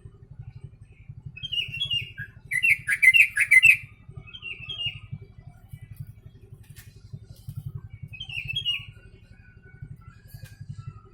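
Yellow-vented bulbul (trucuk) singing short, bubbly phrases of the sooty-headed bulbul (kutilang) song it has been trained on. The loudest burst comes a few seconds in, with further phrases about a second later and again near eight seconds in. A low pulsing hum runs underneath.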